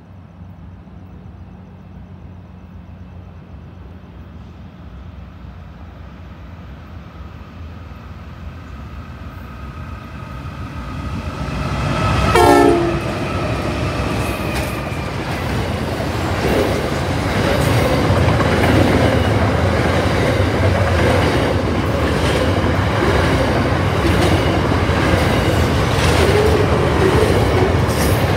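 Freight train led by an NR-class GE diesel-electric locomotive approaching and passing: the engine's drone grows steadily louder for about twelve seconds, then a brief, loud falling tone sounds as the locomotive goes by. After that the wagons roll past with a steady rumble and regular clicks from the wheels.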